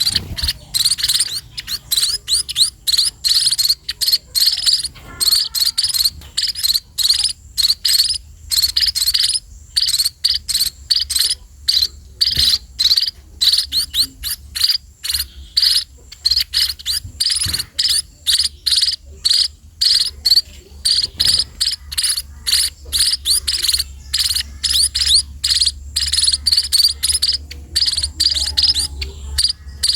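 Rapid, high-pitched chirping: many short chirps in quick, irregular runs, broken by brief pauses.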